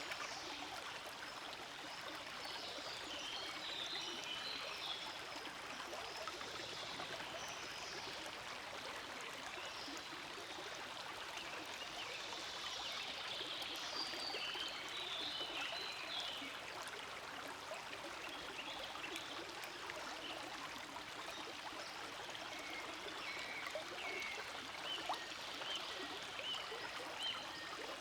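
Forest stream flowing steadily: a continuous rush of water with brighter trickling and splashing flickers over it.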